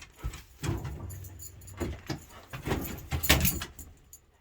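A dog scuffling and rustling about in a woodshed while hunting for mice: a run of irregular rustling noises, loudest a little past three seconds in.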